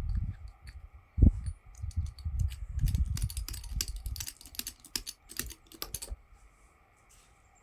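A quick run of light clicks and taps, several a second, over low thumps and rumble, as things are handled on the sawmill while the log's height is checked; it dies away near the end.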